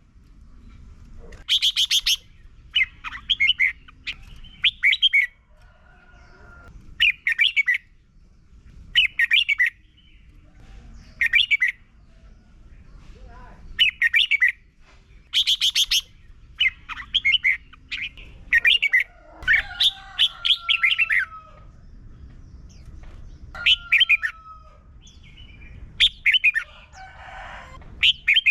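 Red-whiskered bulbul singing short, bright, warbled song phrases, one every second or two, over a low background rumble.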